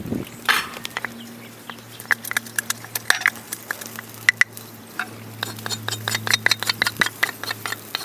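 Many irregular sharp clicks and snaps, sometimes in quick clusters, over a steady low hum.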